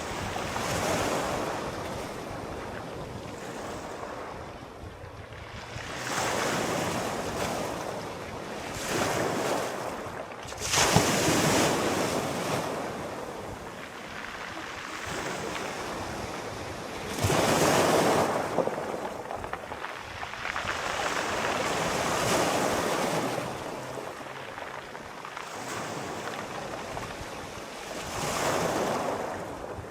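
Sea waves washing in and breaking in slow surges every few seconds, the loudest about eleven and eighteen seconds in.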